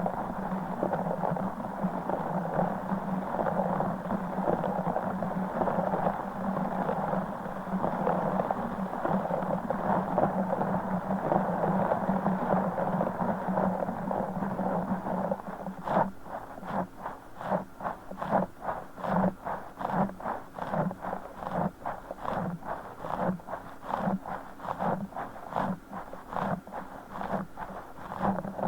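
Broken orbeez stress ball squeezed and kneaded close to the microphone: a dense, continuous squishy crackle of gel beads. About halfway through it turns into a steady rhythm of squeezes, about two a second.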